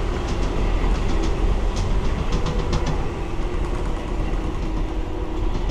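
Amtrak Auto Train passenger car in motion, heard from inside: a steady low rumble of the running train with scattered light clicks and rattles. A faint steady hum joins about halfway through.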